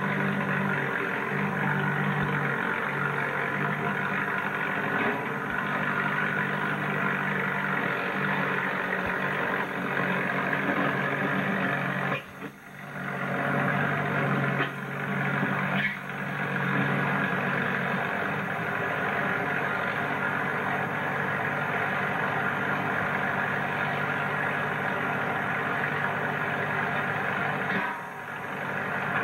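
Tractor engine running steadily, its sound dipping briefly three times: about twelve seconds in, about sixteen seconds in, and near the end.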